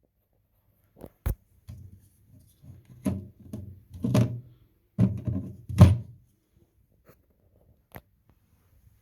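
A click and a sharp knock, then a few seconds of irregular thuds and knocks, heaviest in the middle, and one more click near the end.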